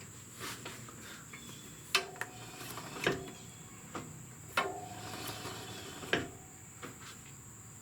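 A few separate clunks and clicks, some with a short metallic ring, from a 2002 Triumph Bonneville America's rear wheel being spun by hand and its rear brake pedal being pressed, a check of whether the repaired rear brake still drags. A steady high-pitched tone runs underneath.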